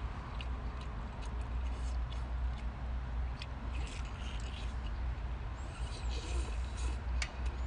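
Eating sounds: scattered wet mouth clicks and chewing over a steady low hum, with a couple of brief high squeaks near the end.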